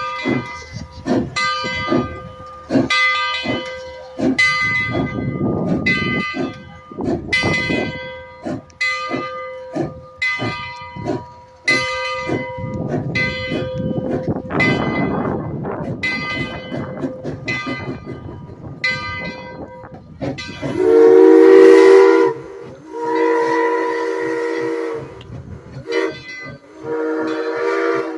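Steam locomotive's bell ringing steadily, about one and a half strokes a second, with occasional bursts of noise underneath. About twenty seconds in the bell stops and the steam whistle sounds three long blasts, the first the loudest.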